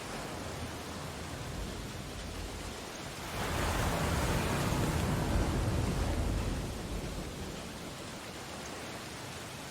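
Ocean surf washing steadily, with one louder wave breaking and rushing in a few seconds in and then ebbing away.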